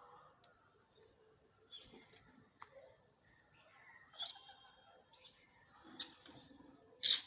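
Parrot giving short chirps and calls about once a second, the loudest near the end.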